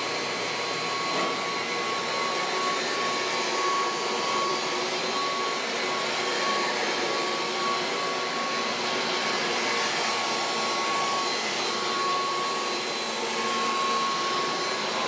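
Kirby Heritage II upright vacuum cleaner running steadily while vacuuming: a rush of air with a steady high whine from the motor.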